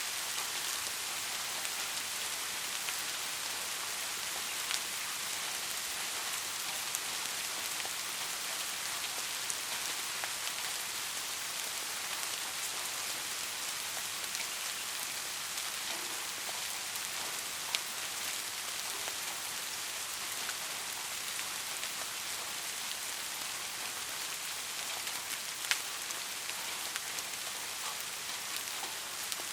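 Steady rain falling on a surface, an even hiss with scattered distinct drop ticks, a few louder drops standing out now and then.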